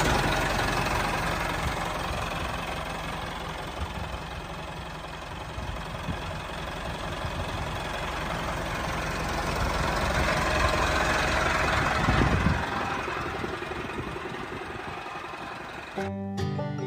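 Engine running steadily, growing somewhat louder about two-thirds of the way through; music starts near the end.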